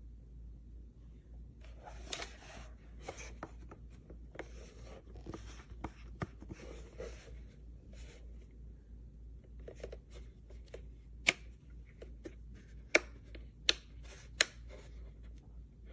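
Handling noise: rustling and light clicks from about two seconds in, then four loud, sharp clicks spread over the last few seconds.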